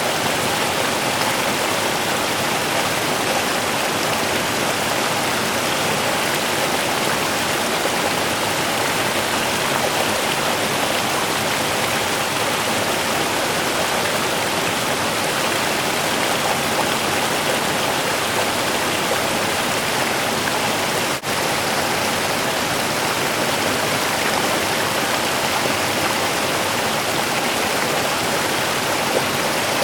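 A small river's running water, rushing and babbling steadily, with a momentary dropout about two-thirds of the way through.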